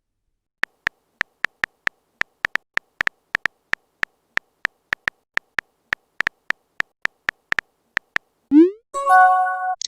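Phone keyboard typing sound effect: a quick, irregular run of short ticks, about three a second. Near the end comes a message notification sound, a rising swoop followed by a brief chime chord.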